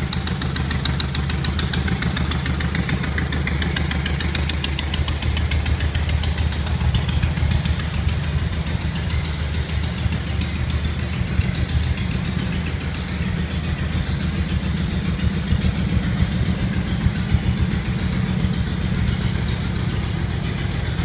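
Volkswagen four-cylinder engine of a Gazelle replica car idling steadily, with a fast, even ticking above a low drone.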